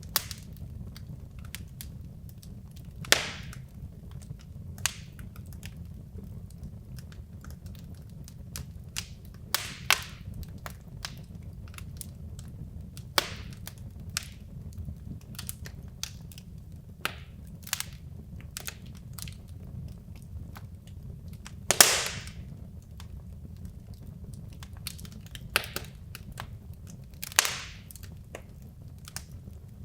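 Wood logs burning in a fireplace, crackling with frequent small snaps and about five louder pops, over a steady low rumble of the fire.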